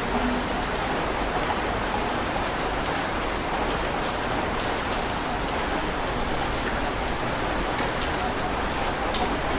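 Heavy rain falling steadily, an even hiss with a few single drops ticking through it.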